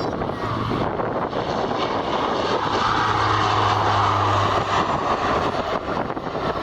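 Fixed-wing aircraft's engines as the plane passes on the runway: a broad rushing noise that swells to its loudest about three to four seconds in, with a steady low hum underneath.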